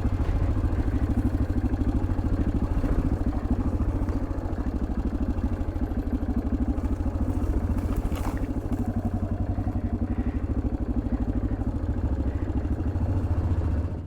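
1987 Yamaha Ténéré XT600Z's single-cylinder four-stroke engine running at a steady, even pulse while the motorcycle is ridden, cutting off suddenly near the end.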